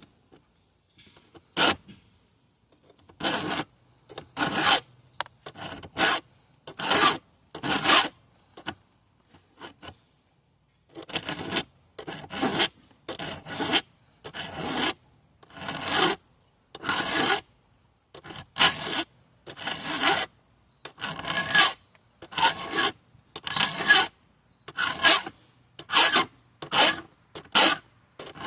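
Hand file rasping across the cutters of a chainsaw chain in repeated strokes, about one a second, with a short pause about a third of the way in.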